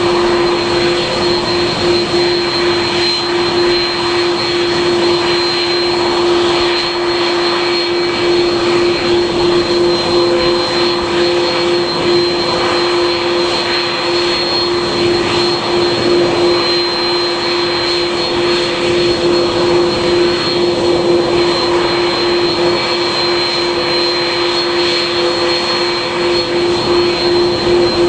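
Aircraft engines running at a steady setting, a constant low hum with a high whine over it, with no rise or fall in power.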